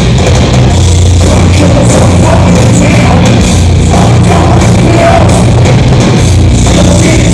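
Heavy metal band playing live and loud through a club PA, with distorted guitars and bass, drums and a singer's voice coming in about a second and a half in.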